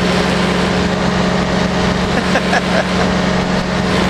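Powered parachute's engine and propeller running at a steady drone in flight.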